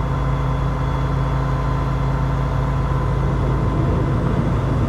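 Heavy diesel truck engine running steadily, a constant low drone with a faint steady whine above it during a winch recovery pull.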